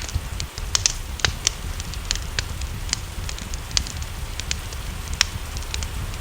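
Wood fire in a fireplace crackling, with irregular sharp pops a few times a second over a steady low rumble.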